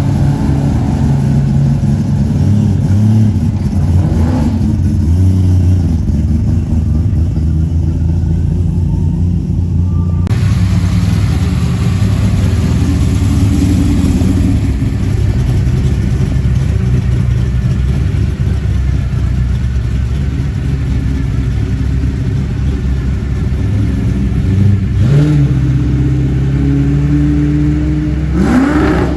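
Muscle car engine running loudly with a low, steady note, then revved up twice near the end.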